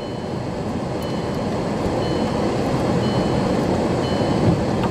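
Steady road and engine noise of a vehicle heard from inside, slowly growing louder. A faint, short, high electronic beep repeats about once a second.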